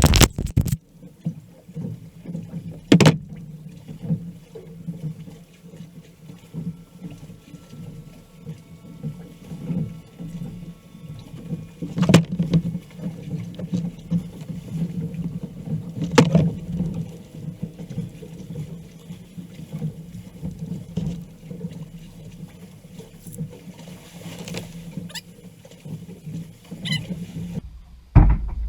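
A kayak being paddled: uneven, swelling water noise of paddle strokes, broken by three sharp knocks.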